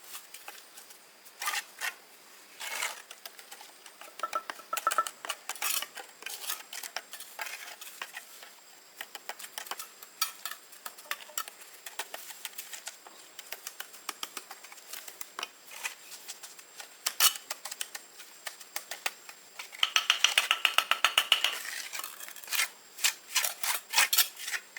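Hard objects clinking and knocking at irregular intervals, with a fast rasping scrape for about two seconds near the end.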